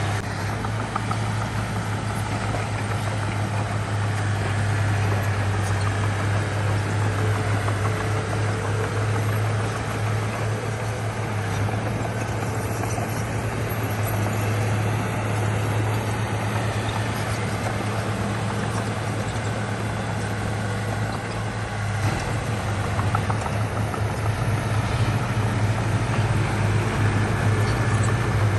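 Diesel engine of heavy earthmoving machinery running steadily with a constant low hum, growing a little louder near the end.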